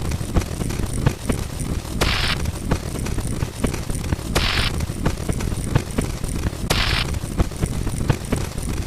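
Sound-effect track of rapid booms and sharp pops packed close together over a steady low rumble, with a short hiss roughly every two and a half seconds.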